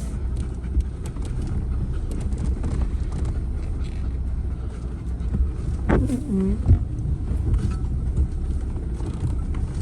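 Vehicle engine idling with a steady low rumble. A brief higher sound with shifting tones cuts in about six seconds in.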